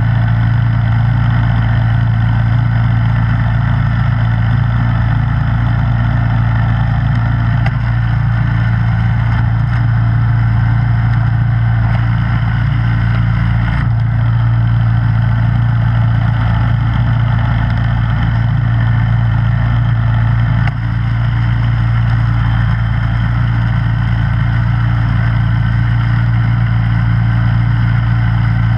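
Snowblower engine running at a steady, constant speed: a strong low hum with an even whirring noise on top, with a brief small dip about three-quarters of the way through.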